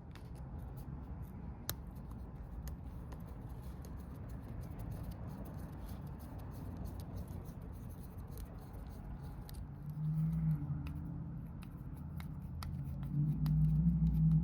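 Small clicks and taps of hand tools on metal as a dirt bike's carburetor and choke are unscrewed, over a low steady hum, with a sharper click about two seconds in. The low hum gets louder briefly about ten seconds in and again near the end.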